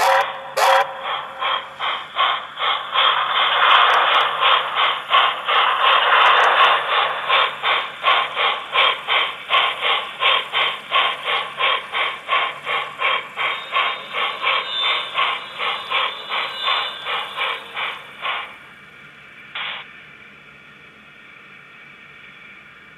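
Sound decoder of an HO-scale NSWGR C38 class steam locomotive model playing steam exhaust chuffs through its small speaker, an even beat of about three chuffs a second, which stops about 18 seconds in. One last puff follows, then a faint steady hiss.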